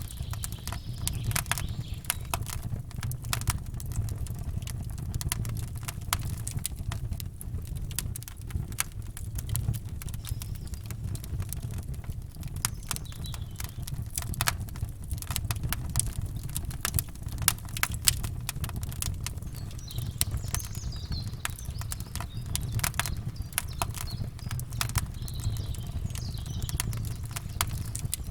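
Campfire crackling and popping in dense, irregular snaps over a steady low rumble. Faint bird chirps come and go in the second half.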